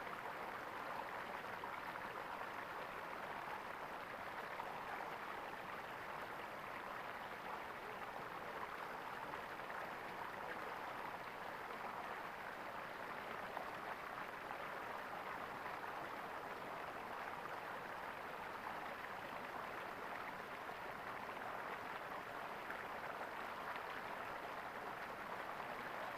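Water gurgling steadily in a small stream, an even rushing with no breaks.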